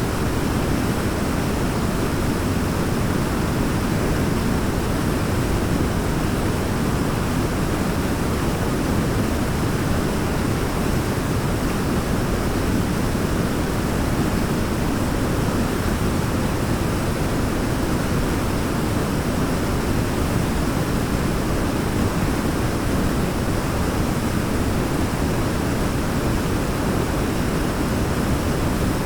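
Waterfall rushing: a steady, even noise, heaviest in the low and middle range, with no changes.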